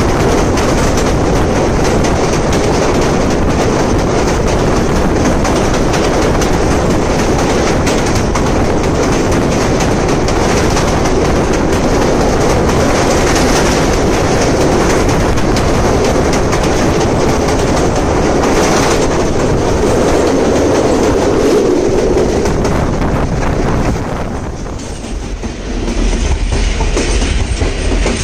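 Train running over a steel truss railway bridge: a loud, steady rumble and clatter of wheels on the rails. The noise dips briefly near the end, then a deeper rumble returns.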